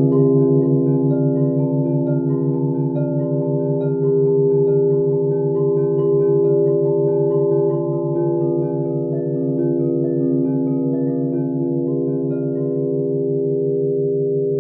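Crystal singing bowls ringing together in overlapping tones, with a pulsing low hum underneath. Short higher notes sound one after another over the top and fade.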